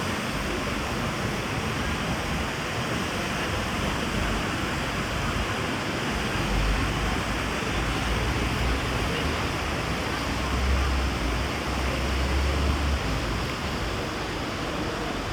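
Steady rushing of sea surf and wind. Wind buffets the microphone from about six to thirteen seconds in.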